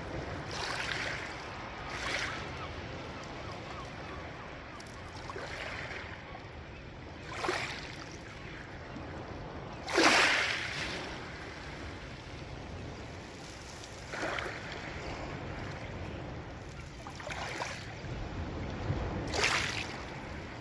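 Sea waves breaking on the shore. Each wave swells and washes in every few seconds over a steady surf background, and the loudest crash comes about halfway through.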